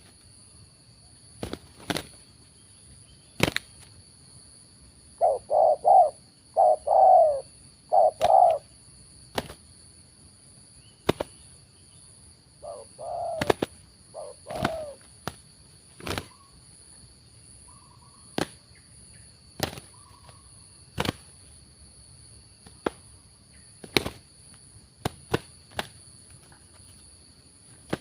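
Spotted dove cooing in two short bouts of low, rolling coo phrases, with single sharp clapping knocks scattered throughout.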